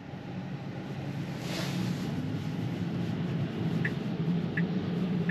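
Steady road and tyre noise inside a moving Tesla Model 3's cabin, growing louder as the car picks up speed. Two short high blips come about four seconds in.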